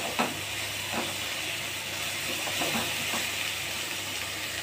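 Onion-tomato masala frying with a steady sizzle in a wok as a silicone spatula stirs it, with a few soft scrapes of the spatula against the pan.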